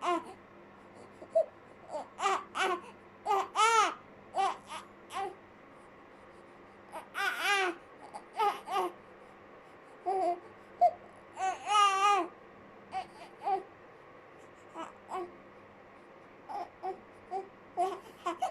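Newborn baby, about three weeks old, fussing with short, high-pitched cries and whimpers that come in brief bursts with pauses between.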